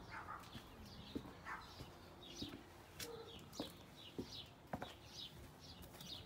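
Birds chirping: faint short falling chirps repeated about twice a second, over scattered soft footsteps on the path.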